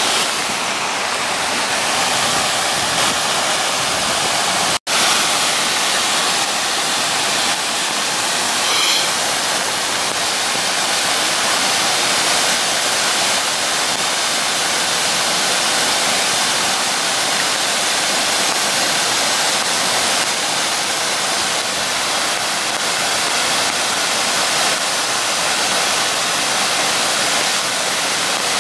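Turner Falls waterfall pouring in a loud, steady rush of falling water, broken by a momentary gap about five seconds in.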